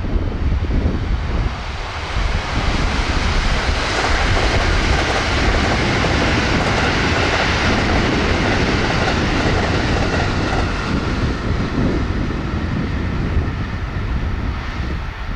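A twelve-car 225- and 223-series electric multiple unit running past at about 128 km/h. It makes a steady rush of wheels on rail that builds a couple of seconds in, holds, and eases near the end as the train draws away.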